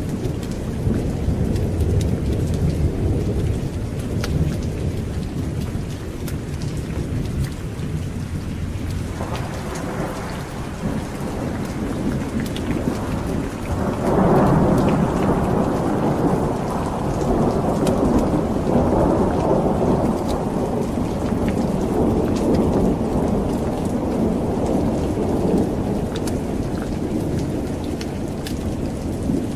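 Thunder rumbling over steady rain, with a deep low roll at first and a louder peal breaking about halfway that rolls on for around ten seconds before easing.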